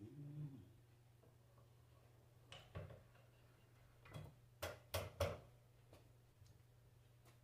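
Faint clicks and light knocks of small metal parts and tools being handled during alternator reassembly, a brief low hum at the very start, then scattered taps with a quick run of four a little after the midpoint.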